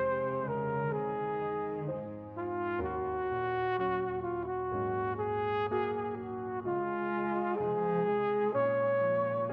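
Background music: slow, held chords in a brass-like sound, changing every second or so.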